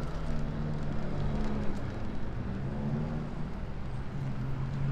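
Street traffic: a motor vehicle's engine running at a steady pitch, over a hiss of road noise.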